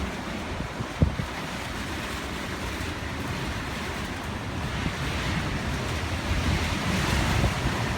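Strong storm wind blowing steadily and buffeting the microphone with a low rumble, growing stronger after about five seconds. A single sharp knock about a second in.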